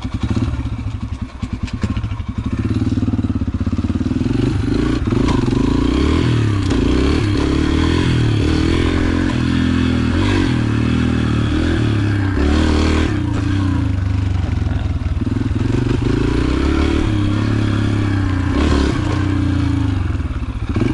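Yamaha TT-R125 dirt bike's single-cylinder four-stroke engine running while being ridden, its pitch rising and falling in steps with throttle and gear changes.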